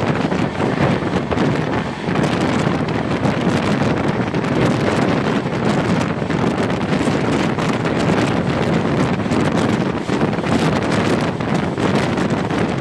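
Steady wind blowing over the microphone from the open doorway of a moving passenger train, over the running noise of the coach on the track.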